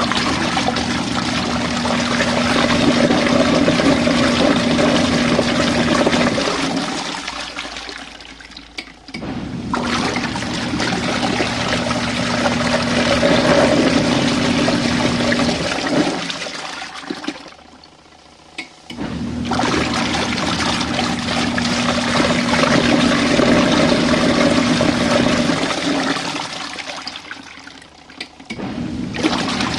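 Small RV washing machine churning its rinse water: the motor hums and the water sloshes loudly for about six seconds at a time, then eases off for a couple of seconds before starting again, three times over.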